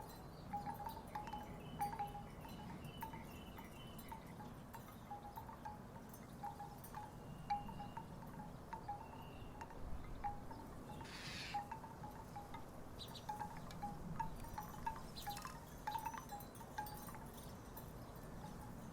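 Wooden tiki wind chimes clacking irregularly in the breeze, short hollow knocks scattered throughout, over a low rumble of wind. A brief hiss passes about eleven seconds in.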